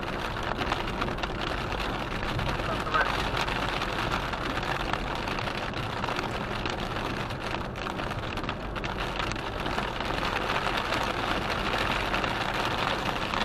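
Heavy rain hitting a car driving on a motorway in a thunderstorm, a steady dense patter over the road and tyre noise.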